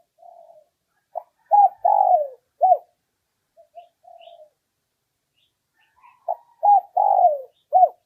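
Spotted dove cooing: two phrases of about four notes each, roughly five seconds apart, each led in by softer, quieter notes. It is a male's territorial call of the kind used as a lure to draw wild males in to fight.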